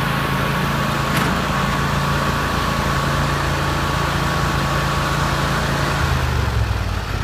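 Riding lawn mower engine running steadily; about six seconds in its note drops lower as it throttles down.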